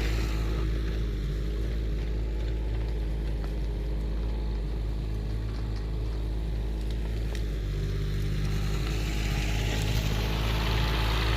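Excavator engine running steadily under load, with a slight change in its tone about eight seconds in.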